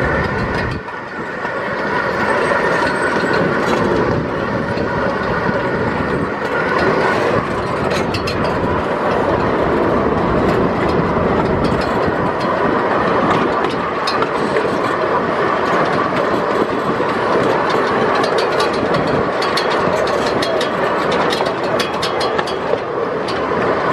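Miniature park train's open passenger car rolling along the track: a steady rumble and rattle with wheels clicking over the rail joints, the clicking sharper about eight seconds in and again in clusters near the end.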